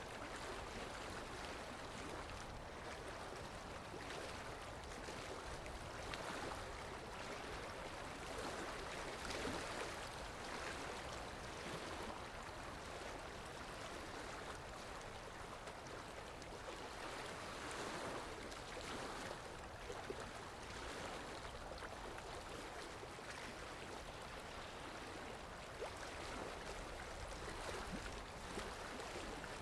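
Water flowing steadily, a stream-like rush with gentle swells in level.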